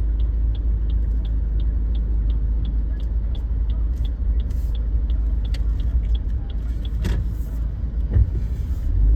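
Car driving in traffic, heard from inside the cabin: a steady low engine and road rumble. Regular light ticking, about three a second, runs for the first three seconds, and there is a sharp click near the end.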